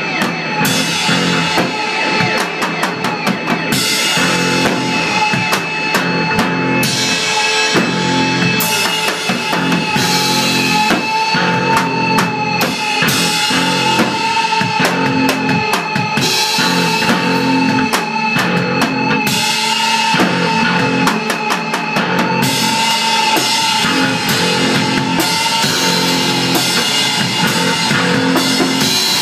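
Garage rock band playing loud psychedelic noise: a drum kit pounding with crashing cymbals under a dense wash of instruments and a held, wavering high tone.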